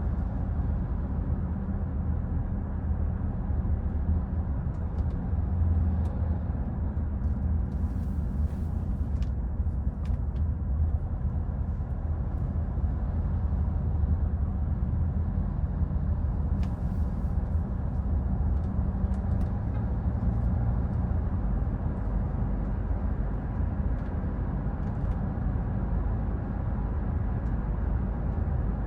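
2014 Hyundai Santa Fe driving: a steady low rumble of engine and road noise, with a few faint clicks.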